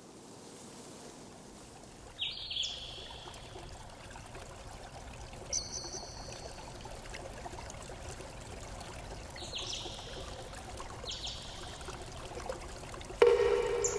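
Running water, a steady even rush that fades in at the start. Five short high-pitched calls or tones break through it, the last and loudest near the end.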